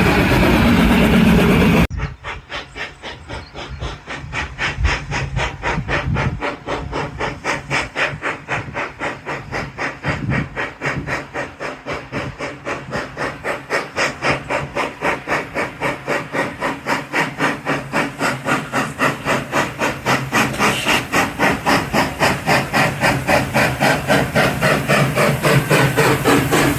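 Steam locomotive pulling away, its exhaust beats quickening and growing louder, from slow chuffs to about four beats a second.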